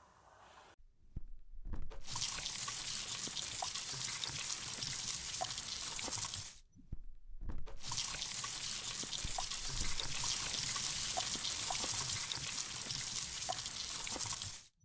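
Steady running water, an even rushing hiss, in two stretches separated by a brief silence about seven seconds in, cutting off abruptly near the end.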